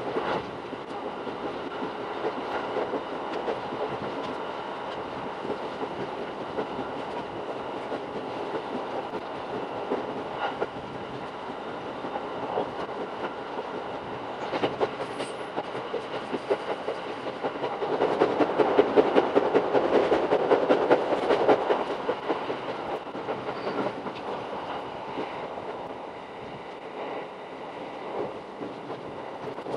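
Shinano Railway SR1-series electric train running, heard from inside the car: a steady rumbling rush with a dense, fast stream of wheel clicks over the rails, sped up sixfold. It grows louder for a few seconds about two-thirds of the way through.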